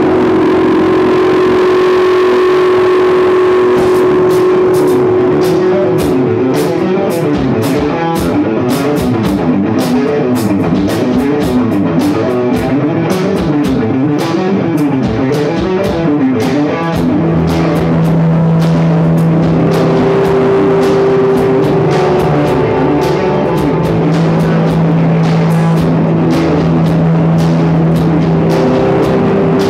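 Rock music with electric guitar and drum kit; the drums come in about four seconds in, and a wavering, wobbling guitar tone fills the middle stretch.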